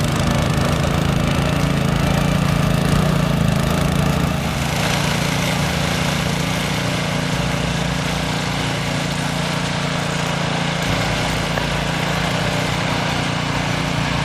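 Gas snowblower engine running steadily under load, with the hiss and rush of snow being thrown. It eases slightly about five seconds in.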